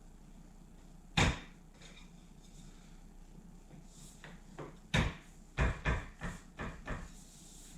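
Wooden bench slats being knocked into place onto glued wooden dowels: one sharp knock about a second in, then a run of about eight knocks over the last few seconds.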